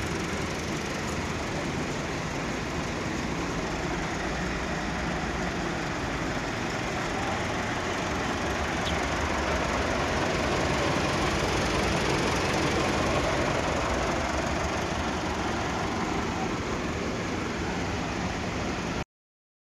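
Massive 399 tractor's 4.1-litre diesel engine running steadily, a little louder in the middle, before the sound cuts off suddenly near the end.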